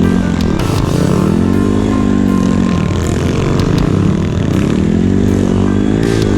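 Dirt-bike engine running as it is ridden, its revs rising and falling in smooth swells every second or two, with some clattering.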